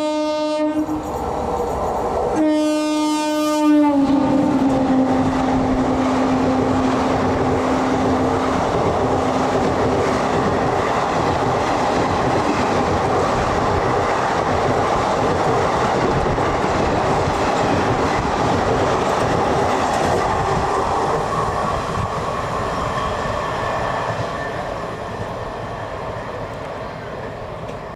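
Indian Railways express train passing at speed: the locomotive horn sounds at the start and again about two seconds in, its pitch dropping as the locomotive goes by, then the long rush and clatter of the coaches on the rails, fading near the end.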